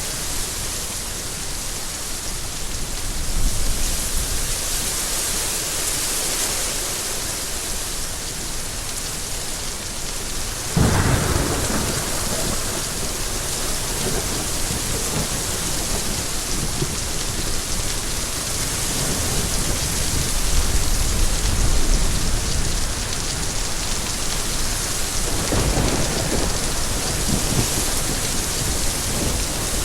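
Steady rain with thunder: a sudden clap about eleven seconds in that rumbles on for several seconds, and a fainter rumble near the end.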